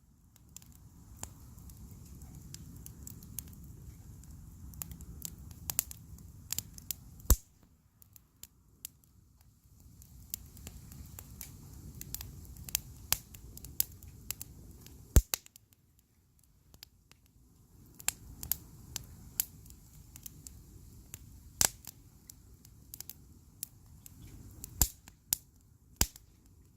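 Wood bonfire burning, crackling with irregular sharp pops and snaps over a low rumble; the rumble drops out twice for a couple of seconds, and the loudest snaps come about a third and just over halfway through.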